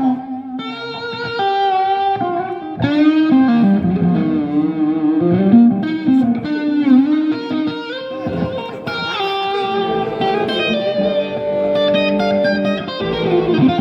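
Electric guitar playing a slow, melodic lead line: long sustained notes with vibrato, and pitch that dips and scoops back up from the tremolo bar.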